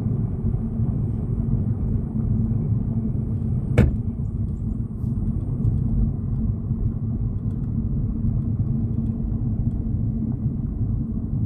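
Car driving, with a steady low rumble of engine and road noise heard from inside the cabin. A single sharp click sounds about four seconds in.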